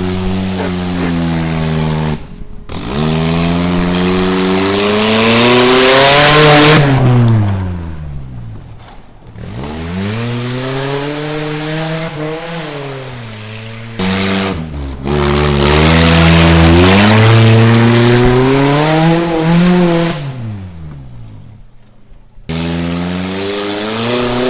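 1995 Mazda's Ford engine revving hard, climbing in pitch and dropping back several times, running strong now that its stopped-up catalytic converter has been dealt with. Abrupt cuts split it into separate runs, the loudest peaks about a third of the way in and past the middle.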